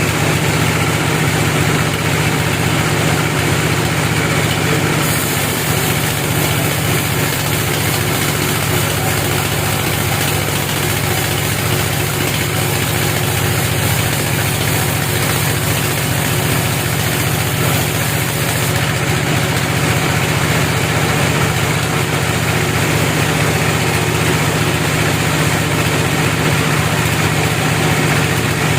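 A heavy engine running steadily at a constant speed, with a strong low hum and a hiss above it; no change in pitch or load.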